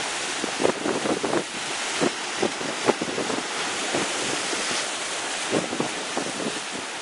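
Sea waves breaking against the rocks at the foot of a cliff: a steady wash of surf broken by short, irregular splashes. Wind buffets the microphone.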